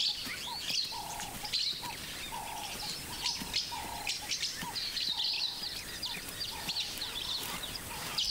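Several wild birds calling and chirping: high quick chirps and trills, with a lower note repeated roughly twice a second through the first half.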